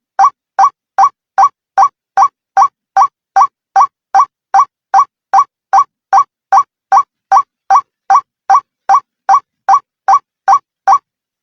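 White-breasted waterhen (ruak-ruak) call played as a bird lure: one short rising note repeated very evenly about two and a half times a second, stopping near the end.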